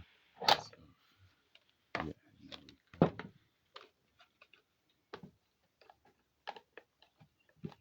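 Irregular clicks and knocks of the instant water heater's cover being handled and closed back up, with a few louder knocks in the first three seconds and lighter ticks after.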